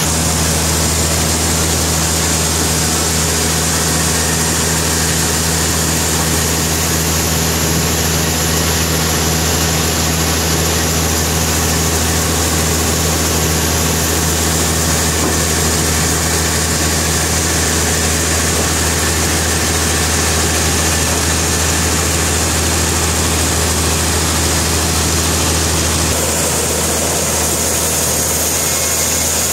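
Sawmill machinery running steadily: a loud, even mechanical drone with a constant low hum, shifting slightly about 26 seconds in.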